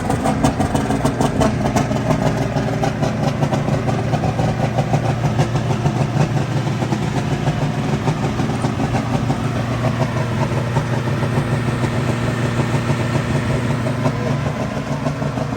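A vehicle engine running steadily, an even low drone with fast regular pulses.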